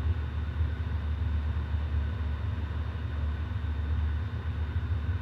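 Outdoor air-conditioning condenser units running: a steady low hum with fan noise and a few faint steady whines above it.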